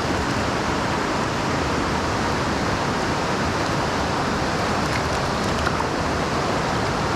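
Creek water rushing steadily, an even hiss with no change.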